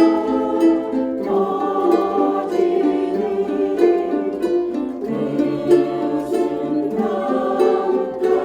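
Ukulele ensemble strumming chords together, the harmony changing a few times.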